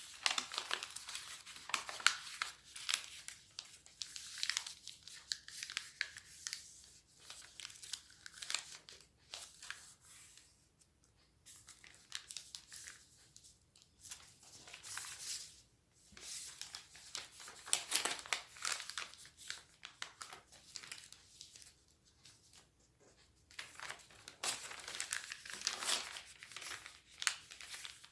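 Sheet of origami paper being folded and creased by hand, crinkling and rustling in bouts with sharp crackles and short pauses between them.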